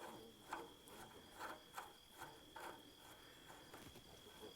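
Near silence: a few faint, light clicks and taps, unevenly spaced, over a faint steady high-pitched tone.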